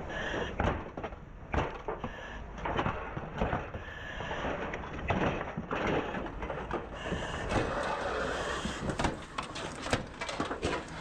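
Irregular knocks, cracks and scraping of burnt house material being pried and broken apart during post-fire overhaul.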